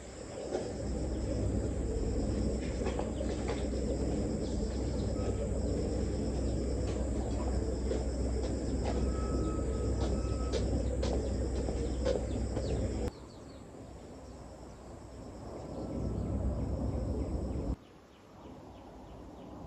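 Outdoor rural ambience: insects singing in a steady high continuous tone over a louder low rumbling noise with scattered clicks. The sound changes abruptly about two-thirds of the way through, when the rumble drops away, and again near the end, when the insect tone stops.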